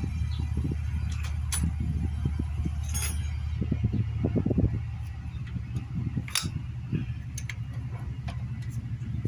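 Scattered metallic clinks and rattles of tools and small parts being handled during motorcycle engine work, over a steady low hum that fades out about halfway through.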